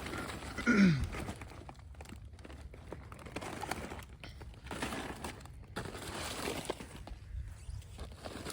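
Rustling and crinkling of dry debris and cover being moved by hand, with one short sound falling in pitch about a second in.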